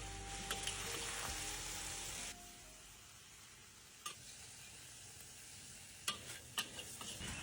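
Food sizzling in a hot pan while a utensil stirs it, with scattered clicks and scrapes. About two seconds in the sizzle drops suddenly to a faint hiss, and the clicks of stirring return near the end.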